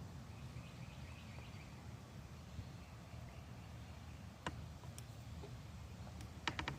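Faint outdoor ambience: a small bird twittering softly about half a second to two seconds in over a low steady rumble, with a sharp click midway and a quick run of clicks near the end.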